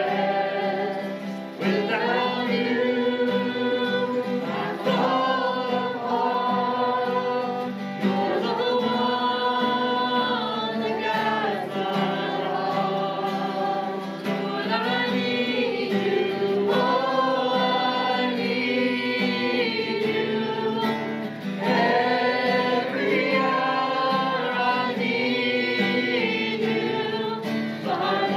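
Congregational worship song: group voices singing long held phrases over steady instrumental accompaniment.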